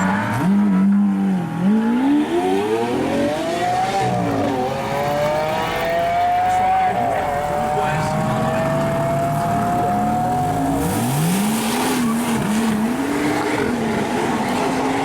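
Performance car engines accelerating away, the engine note climbing steeply as the revs rise and then held high for several seconds. About eleven seconds in, another engine revs up and blips its throttle a few times.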